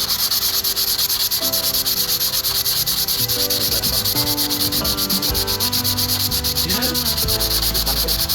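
A rapid, even rasping of about ten strokes a second, as of sanding, starting abruptly and running steadily.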